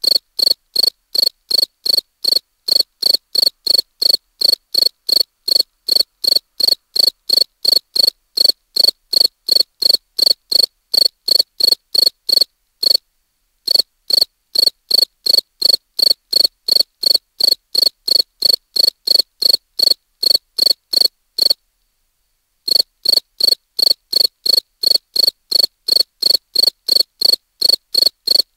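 A cricket chirping in a steady, even rhythm of about two and a half chirps a second. It pauses briefly twice.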